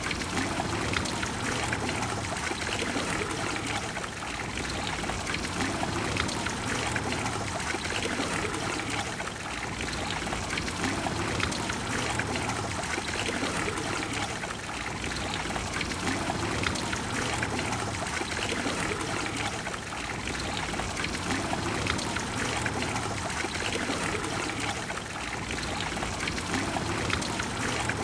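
Water of a large fountain splashing and pouring steadily into its basin.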